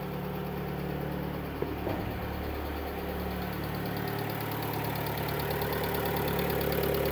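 Skoda Octavia Mk2 1.4-litre four-cylinder petrol engine idling steadily, freshly started after a cylinder head rebuild, getting louder toward the end. A fast, light ticking comes in about halfway through: hydraulic tappets still filling with oil, which should quieten once the engine has run a while.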